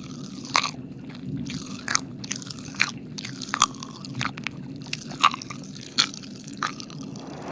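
Close-miked wet mouth sounds: about ten sharp, irregular lip smacks and tongue clicks from licking at the microphone, over a steady low hum.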